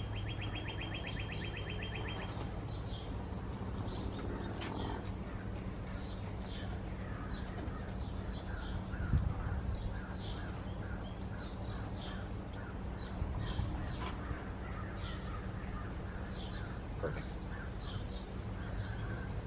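Wild birds calling with short chirps repeated all through, and a fast trill in the first two seconds, over a steady low hum.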